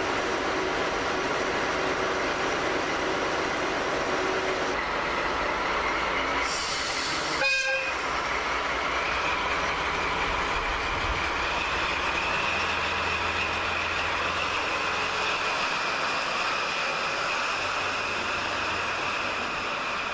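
Diesel locomotive running and a train of coaches rolling slowly past at close range. About seven seconds in comes a short, sharp hiss-and-toot of the locomotive's whistle. From about nine seconds a thin, steady high squeal runs on.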